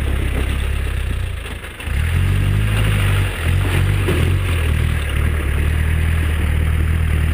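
Land Rover Defender's engine running under load as it crawls up a rocky off-road track, steady and low, with a short drop in revs just before two seconds in and a brief one again after three seconds.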